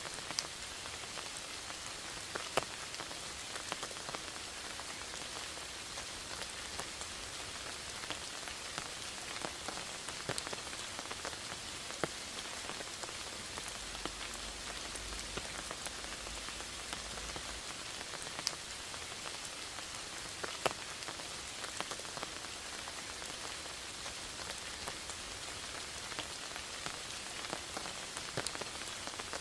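Steady rain falling in a forest, an even hiss with frequent sharp drop ticks scattered through it.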